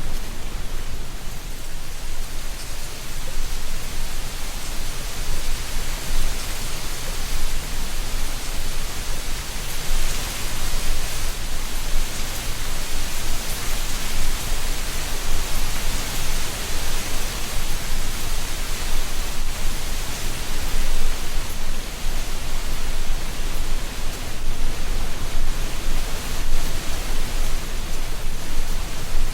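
Autumn wind blowing through a tree canopy, rustling dry leaves in a steady rushing hiss that swells and eases in gusts, strongest about ten seconds in.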